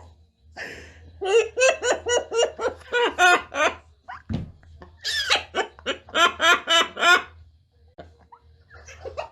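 Laughter in two rhythmic bouts of quick 'ha-ha-ha' syllables, with a short thump between them.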